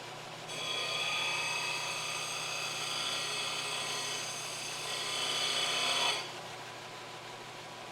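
Power tool running with a high, steady whine, starting about half a second in and cutting off after about five and a half seconds, with a low steady hum underneath.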